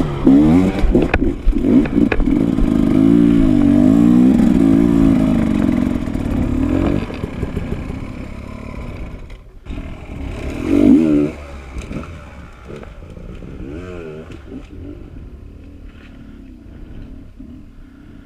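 Dirt bike engine running hard with its pitch rising and falling as the throttle is worked, loud for about seven seconds and then dropping away. A short rev burst comes around eleven seconds in, after which the engine fades to a quieter running sound.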